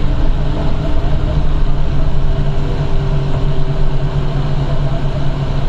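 Train running: a steady, loud rumble with a low hum, and a faint higher tone held through the middle.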